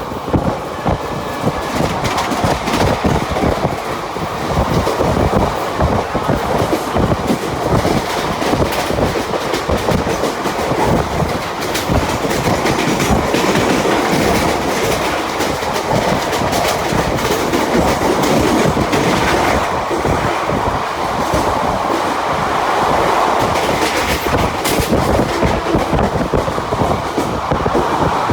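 Mumbai suburban local electric train running at speed, heard from aboard: a steady rumble with the wheels clattering over the rail joints.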